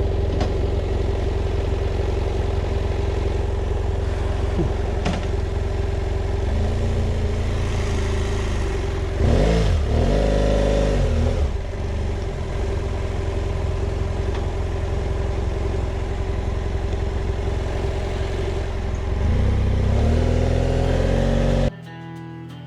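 BMW F800GS parallel-twin motorcycle engine running as the bike sets off, with a rise and fall in revs about nine to eleven seconds in. About a second before the end it cuts suddenly to guitar music.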